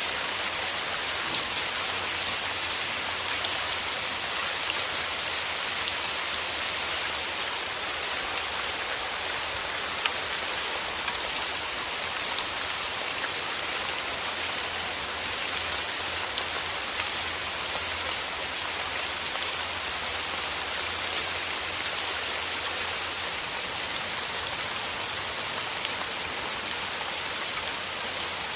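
Steady rain falling, a continuous hiss with many individual drops ticking on surfaces.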